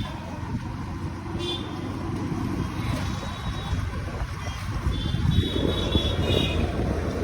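Wind and road noise on a moving motorcycle, with a few short, high vehicle-horn beeps: one about a second and a half in, and several more in a cluster around the fifth and sixth seconds.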